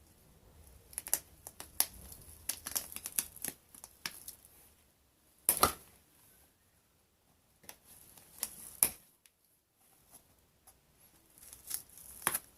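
A gray canvas Converse sneaker being torn and crushed, making irregular clusters of crinkling, tearing and sharp snapping noises with short pauses between them. The loudest snap comes about five and a half seconds in.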